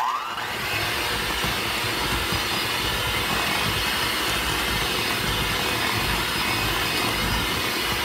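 Electric hand mixer running steadily on medium speed, its beaters creaming softened butter and powdered sugar in a glass bowl; the motor spins up with a short rising whine at the start.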